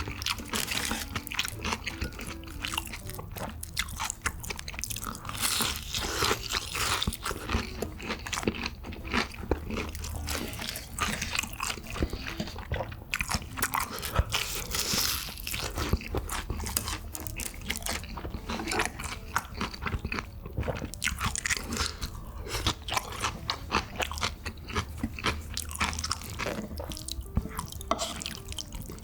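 Close-miked eating sounds: a person chewing and crunching food, with a dense run of short, sharp crackles and clicks.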